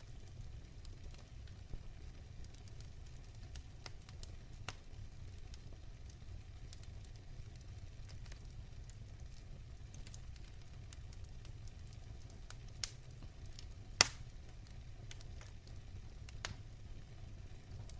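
Wood fire burning in a fireplace: a steady low rumble of flame with scattered sharp crackles and pops, the loudest pop about fourteen seconds in.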